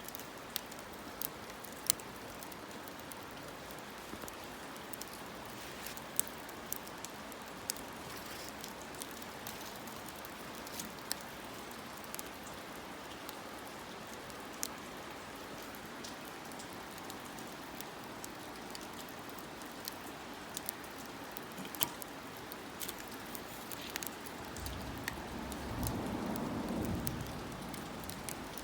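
Wood fire crackling in a small campfire stand: a steady hiss with frequent sharp pops, and a louder low swell of noise for a few seconds near the end.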